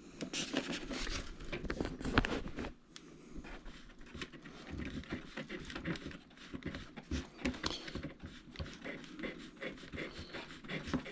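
Irregular scratchy rubbing and small clicks of hand handling as long-threaded knobs are twisted by hand into a foam airframe, with one louder knock about two seconds in.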